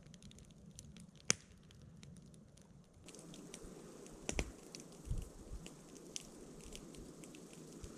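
Wood campfire crackling with irregular small pops and one sharp pop, plus a couple of soft knocks and a low thud around the middle.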